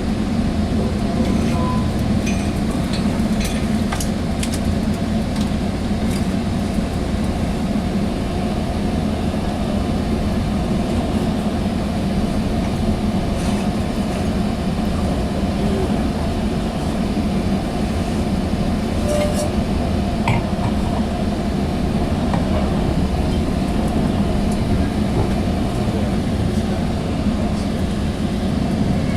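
Sounder commuter train running along the rails, heard from inside a passenger coach: a steady rumble with scattered light clicks and clinks.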